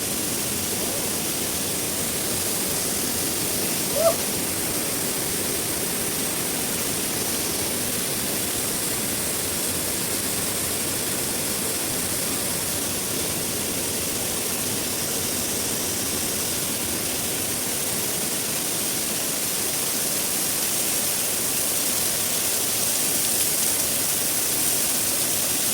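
Waterfall with a steady rush of falling water, and one brief short sound about four seconds in.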